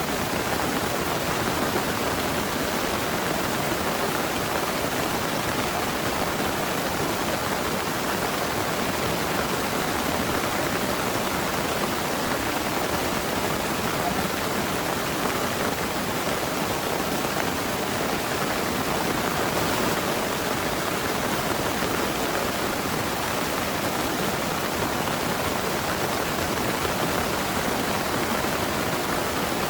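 Heavy rain falling steadily, an even hiss with no separate drops or thunderclaps standing out.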